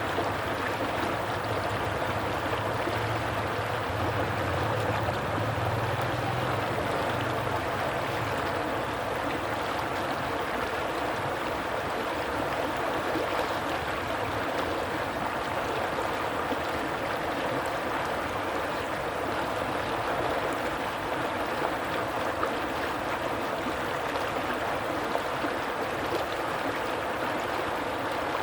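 Flowing stream water, a steady even rush. A faint low hum sits underneath for the first several seconds, then fades out.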